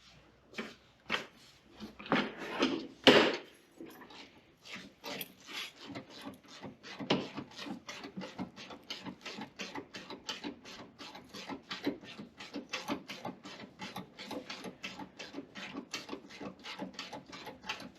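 Ratchet wrench being worked back and forth on a bolt under the car, a steady run of short clicking strokes about three a second, after a few louder knocks about two to three seconds in.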